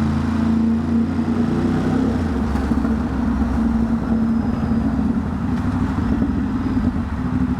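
Ducati Monster's L-twin engine running steadily at low speed in stop-and-go traffic, with a shift in its tone about two seconds in.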